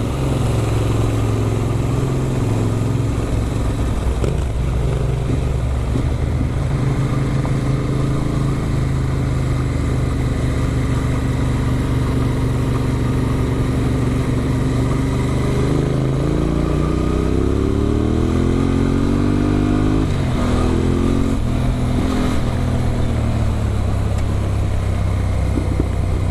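Adventure motorcycle engine running under way at a steady pitch, then climbing in revs as it accelerates about two-thirds of the way in, with a sudden drop in pitch at the top and another brief dip a second later, as with gear changes.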